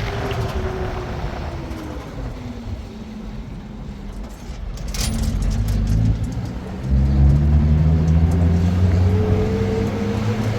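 A road vehicle's engine running, its pitch falling over the first few seconds as it slows. About seven seconds in, a louder, deeper engine note comes in and its pitch rises as it speeds up.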